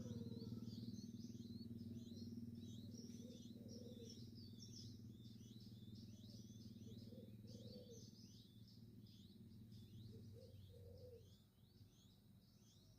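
Baby birds in the nest chirping, many short high cheeps a second in a steady stream, as nestlings beg for food. Under them is a faint, steady low hum that stops about eleven seconds in.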